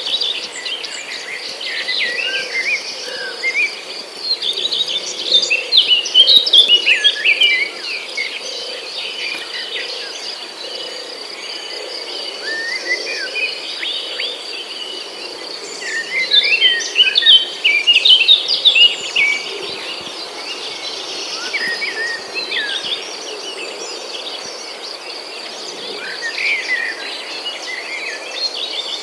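Several songbirds chirping and singing in bursts of quick trills and whistles, over a steady high insect drone.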